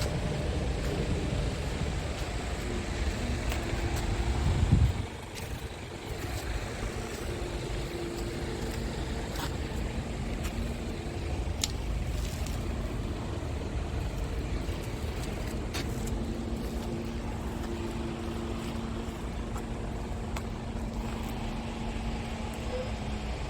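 Scania R400 truck's diesel engine running: a heavier low rumble for the first five seconds or so ends in a brief loud peak and drops off suddenly, then a steadier, quieter hum with a faint whine follows.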